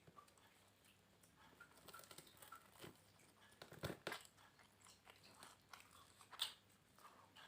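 A person chewing and biting into a fried catfish and raw-vegetable meal close to the microphone: faint, irregular mouth sounds and small crunches, the loudest cluster of bites about four seconds in.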